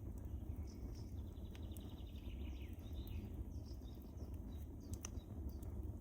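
Wood fire burning in a fireplace: a steady low rumble of flames with scattered sharp crackles and pops, one louder pop about five seconds in. About a second in, a quick run of high ticks falls in pitch for roughly a second and a half.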